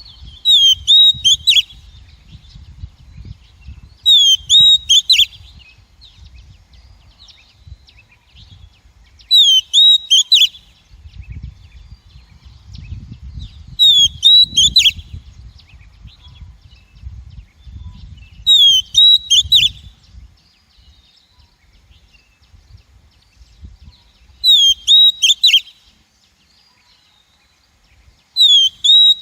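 Female oriental magpie-robin calling: a short, bright phrase of quick rising and falling notes, repeated seven times about every four to five seconds. A faint low rumble runs underneath.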